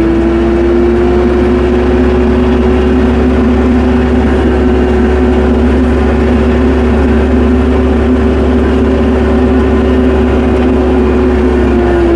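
Tractor engine running steadily as the tractor drives along, its drone holding an even pitch and easing down slightly near the end.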